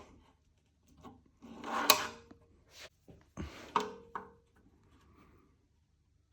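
Wooden drawer being worked on its slide runners: two rubbing scrapes about two seconds apart, each with a sharp click, then a few faint ticks.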